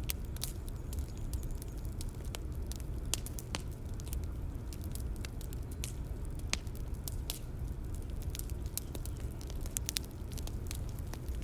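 Bonfire ambience: wood fire crackling and popping with irregular sharp snaps over a steady low rumble of the flames.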